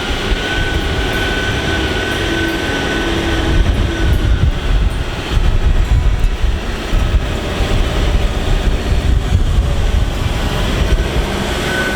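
Four-wheel drive working slowly over a slippery track: a steady low rumble of engine and drivetrain, with a held whine over it.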